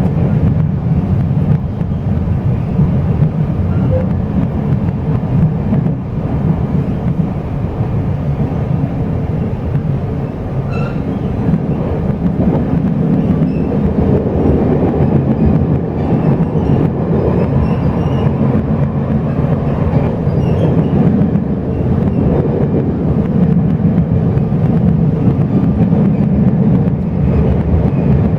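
Chu-Kuang express passenger train running, heard from inside the carriage: a steady, loud rumble of the train under way.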